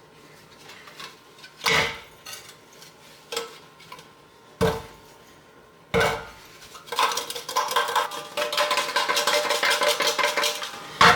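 Removed exhaust parts knocked a few times, then a metallic rattle of loose pieces from about seven seconds in, from the Blazer's post catalytic converter, the part that turns out to be the problem.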